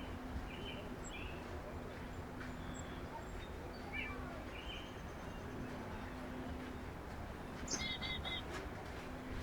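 Wild birds at a backyard feeder giving short scattered calls, with a quick run of three chirps near the end, over a faint steady low hum and outdoor background noise.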